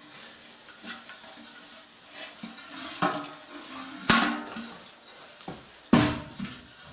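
Metal clanks and knocks from the steel body and door of a homemade wood stove being handled, about five in all, the loudest about four and six seconds in.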